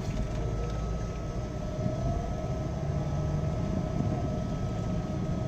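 Steady engine and road rumble of a moving vehicle heard from inside, with a faint steady whine over it.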